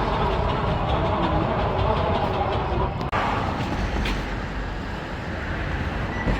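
Steady rumble of a moving vehicle, with a brief break about three seconds in.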